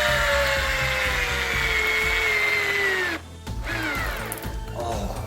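Keyang DD-1200 12 V cordless drill driver driving an 8 cm screw. Its motor whine sinks slowly in pitch as it labours under the load, stops about three seconds in, then comes back in a shorter burst that also falls in pitch.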